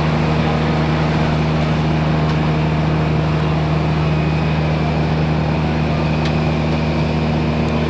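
Fire truck's diesel engine running steadily to power the aerial ladder, a constant unbroken drone.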